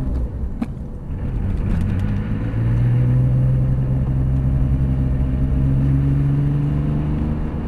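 Porsche 911 GT3 RS flat-six engine heard from inside the cabin, running at light throttle at low pit-lane speed with an even drone. The drone dips briefly with a click just after the start, then settles and rises slightly as the car picks up a little speed.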